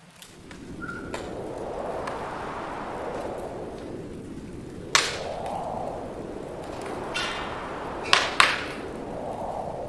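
Wood fire crackling and popping, with a sharp pop about five seconds in and two more close together a little after eight seconds, over a rush of wind that swells and fades every few seconds.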